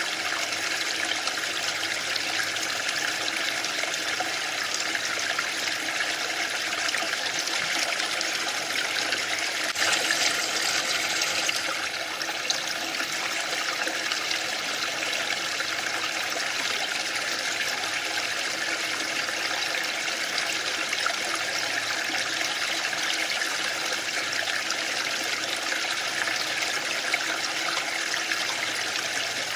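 Waterfall: a steady rush of falling water. It turns briefly louder and hissier for a second or two about a third of the way in.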